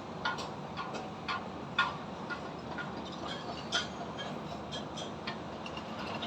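Distant construction-site knocks: irregular sharp metallic taps, roughly one or two a second, the loudest about two seconds in, over a steady hum of traffic.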